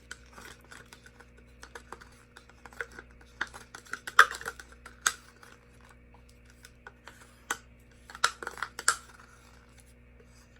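Irregular light clicks and taps of plastic paint cups and containers being handled while colours are poured, a few sharper knocks among them, over a faint steady electrical hum.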